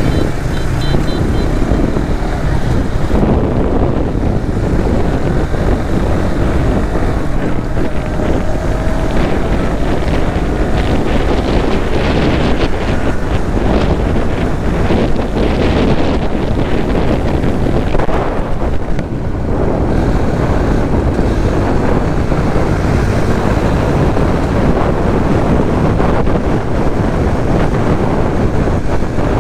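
Steady wind rush buffeting the microphone of a moving Suzuki GSX-S150 motorcycle, with engine and road noise beneath it. The rush eases briefly about nineteen seconds in.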